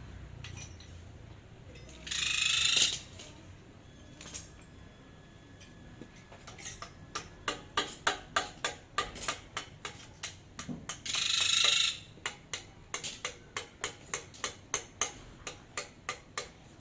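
Light metallic clicks repeated about two to three times a second, with two short hissing bursts, as tools and metal parts are worked on a hand pallet truck's hydraulic pump.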